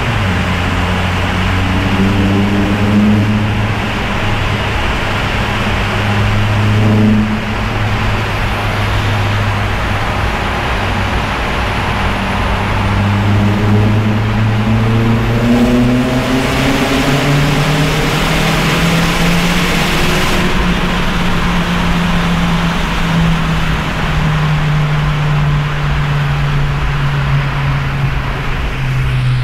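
Opel Astra OPC's turbocharged 2.0-litre four-cylinder (Z20LEH) running through a 3-inch Friedrich exhaust in a tunnel. The engine note drops as the revs fall at the start and holds steady for several seconds. About halfway through it rises slowly as the car accelerates, then settles back.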